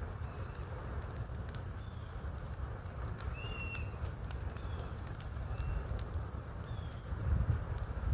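Short, high bird calls repeating every second or so over scattered sharp crackles of a wood fire, with a steady low rumble underneath.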